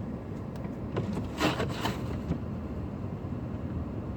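Car heard from inside the cabin: a steady low rumble, with a few short rustling knocks about one and a half to two seconds in.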